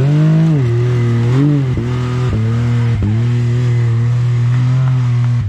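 Off-road vehicle's engine revving under load on a steep climb: pitch swings up and down in the first second or two, then holds at steady high revs.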